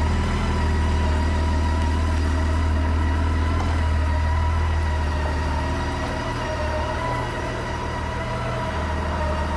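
2007 Honda Goldwing GL1800's flat-six engine idling smoothly and steadily.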